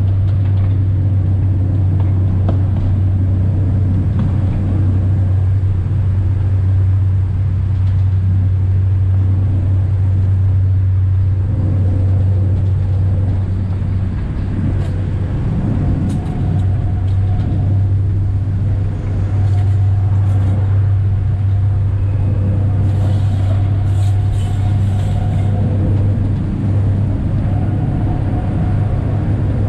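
Alishan Forest Railway diesel train running, heard from the cab: a steady low engine drone with wheel and track rumble. In the second half come intermittent higher tones and faint clicks.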